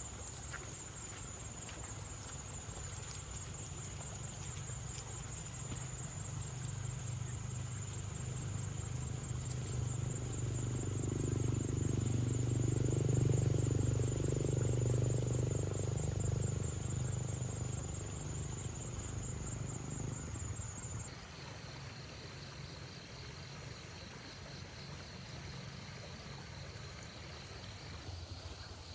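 Insects trilling steadily in a high pulsing buzz; about two-thirds of the way through it gives way to a lower-pitched trill. Under it, a low drone swells in the middle and fades away.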